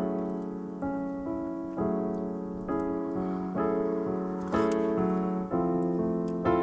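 Background piano music: slow chords struck roughly once a second, each fading before the next.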